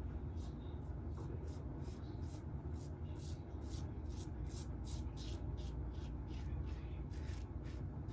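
Short scratchy strokes across a lathered face during a wet shave, quick and even at about two or three a second, over a low steady room hum.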